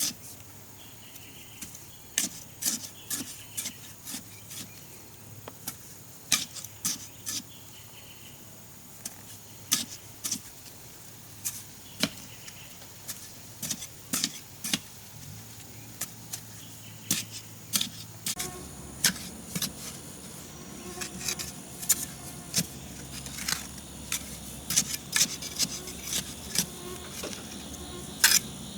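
Irregular sharp taps and knocks, about one or two a second, from building work, over a steady high insect chirr.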